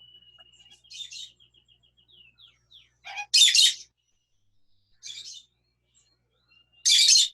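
A parrot whistling one long steady note, breaking into a quick run of short chirps, then giving three loud harsh squawks, the last near the end.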